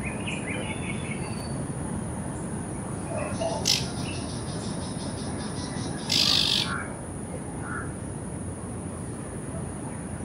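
Naked-faced spiderhunter calling. A sharp short note comes a little before four seconds in, then a louder, harsh call of about half a second around six seconds in, with a few faint chirps at the start over steady background noise.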